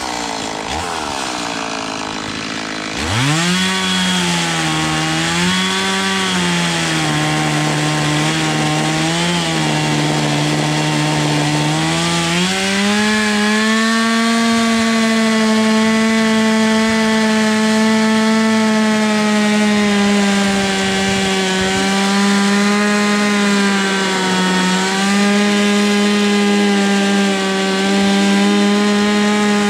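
Two-stroke chainsaw cutting wood. It runs quieter for the first few seconds, then revs up sharply about three seconds in. The engine note wavers and sags under load, then rises about halfway through and holds steady at high revs.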